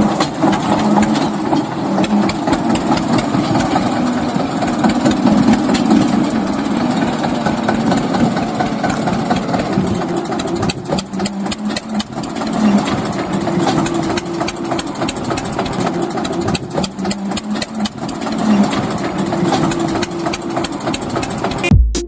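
Mini Eicher tractor's engine running steadily at about idle. Music cuts in at the very end.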